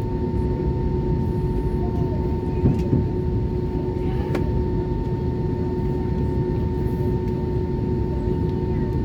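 Cabin noise inside an Airbus A320-232 with its IAE V2500 engines running at the start of the taxi: a steady rumble with two constant whining tones through it. There are a few brief knocks about three and four seconds in.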